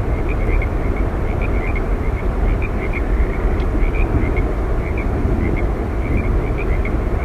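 Yosemite Falls' water roaring steadily as a low, rushing noise, with short high chirps dotted through it several times a second.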